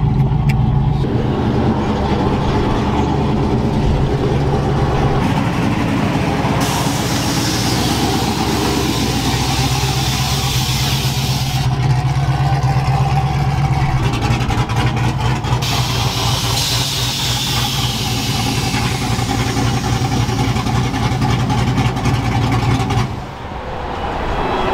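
Vehicle engine and exhaust drone while driving, heard from inside the cab, steady with a brief drop in level near the end.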